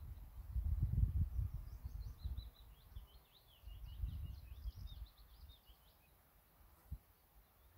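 A small songbird sings a quick run of high, varied chirps lasting about three seconds, over a low rumble that dies away in the first half.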